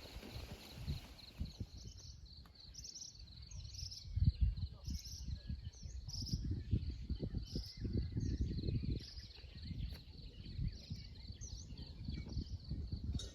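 Wind gusting on the microphone in uneven low rumbles, over an insect trilling steadily and a bird giving short chirps over and over.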